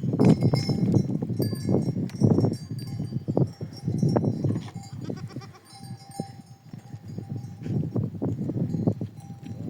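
Bells on a herd of goats clinking and ringing as the animals move, over a rustle of short livestock noises.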